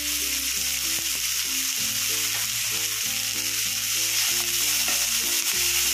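Fresh chopped fenugreek (methi) leaves sizzling in hot oil over a fried tempering of garlic–green chilli paste and spices: a steady frying hiss.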